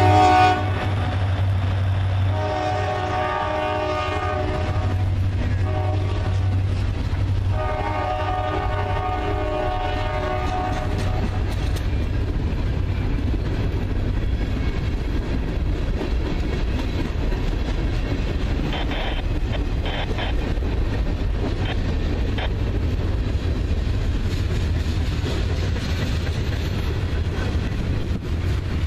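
Diesel freight train on the Norfolk Southern Fort Wayne Line. Its locomotive horn sounds the grade-crossing pattern: a long blast ending just as the sound begins, another long blast, a short one, and a final long one. Then the train rumbles steadily past, with wheels clicking over rail joints about two-thirds of the way through.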